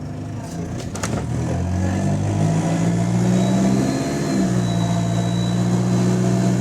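Bus diesel engine pulling away, its note rising in pitch, dipping briefly about four seconds in, then holding steady; the bus has an exhaust leak. A sharp click comes about a second in.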